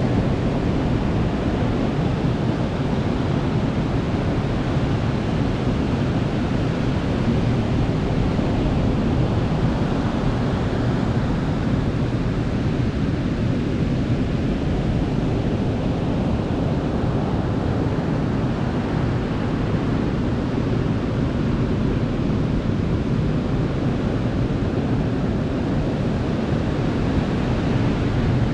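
Sea waves breaking and washing on a beach, a continuous deep rushing noise that swells and eases a little in the middle, with some wind on the microphone.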